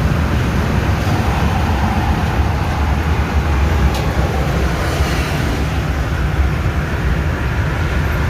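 Scania 112H truck's diesel engine running steadily on the road, a loud, even low rumble. A single short click about four seconds in.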